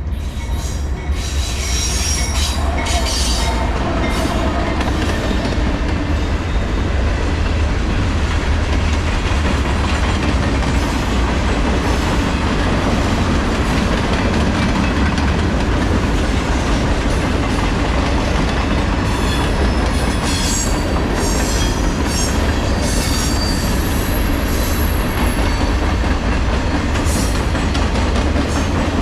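Norfolk Southern freight train rolling past: a steady loud rumble of steel wheels on rail, with high-pitched wheel squeal a couple of seconds in and again about two-thirds of the way through.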